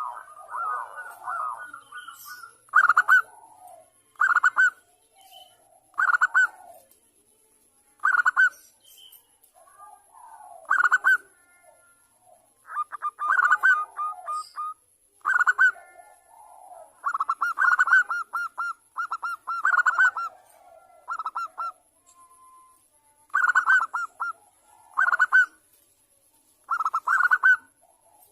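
Zebra dove (perkutut) cooing: short bursts of rapid staccato coos that repeat every second or two. A faint steady high whine runs underneath.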